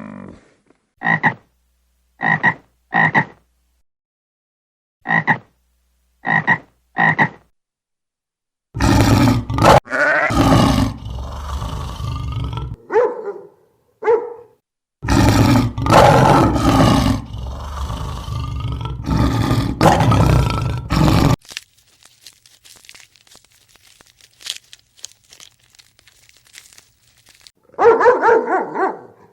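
A run of animal calls. First come short croaks in two groups of three. Then loud, harsh calls go on for about twelve seconds. Near the end a new animal call begins, leading into dog barking.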